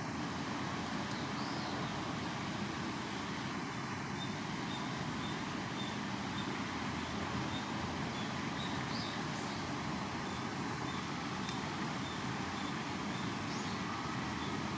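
Steady outdoor background noise, with a few faint, short high chirps and a faint rapid row of high ticks through the middle.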